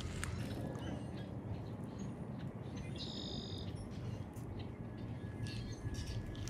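Low wind rumble on the microphone with faint scattered clicks, and a short, high chirping bird call about three seconds in.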